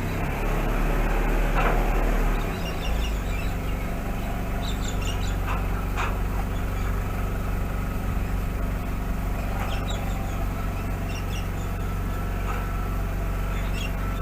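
Engine running at a steady idle: a low, even hum with a few small clicks over it.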